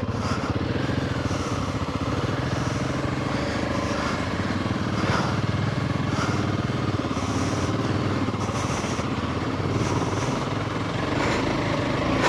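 Royal Enfield Himalayan 450's single-cylinder engine running steadily under light throttle as the motorcycle is ridden.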